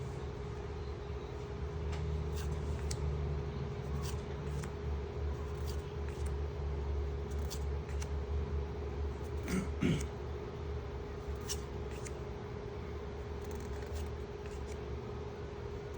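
Trading cards being handled and flipped through by hand: soft slides with scattered short snaps and clicks, over a steady low hum. A brief louder sound comes a little before the middle of the second half.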